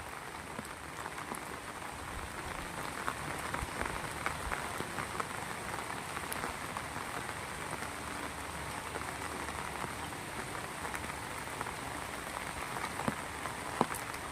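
Heavy rain falling steadily, with many separate drops ticking sharply against a surface close by over the even hiss of the downpour.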